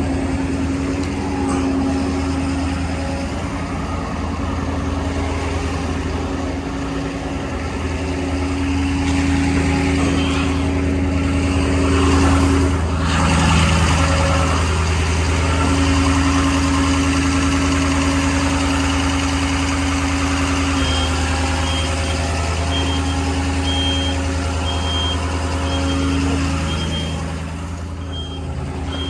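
The 2014 Ford F550's 6.7L Power Stroke V8 turbo-diesel runs steadily at idle with a low, even hum. In the last few seconds a rapid series of high beeps sounds over it.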